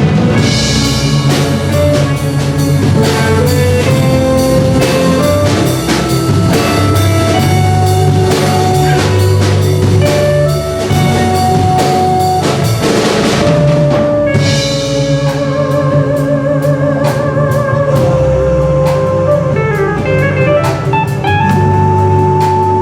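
Live band music: a drum kit keeps a steady beat under guitar and a held melody line, with cymbal crashes near the start and again about halfway through, and one long melody note that wavers about two-thirds through.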